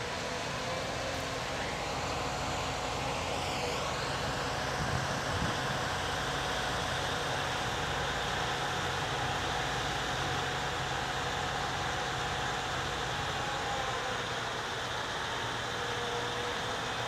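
An engine running steadily at idle, an unbroken mechanical hum with a hiss over it.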